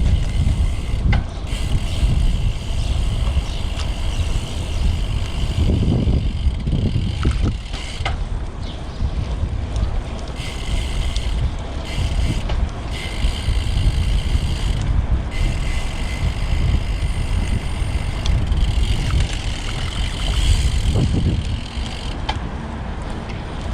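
Wind buffeting the microphone of a camera on a moving road bike, a constant low rumble with uneven gusts, over a faint hiss from the ride.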